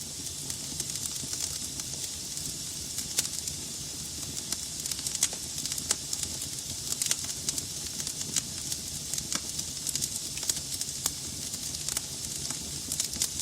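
Wood logs burning in a fireplace: a steady hiss with frequent, irregular crackles and pops.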